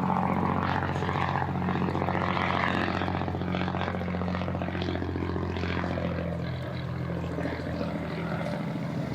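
A boat's engine running steadily at low speed, a low drone with a slight waver in pitch.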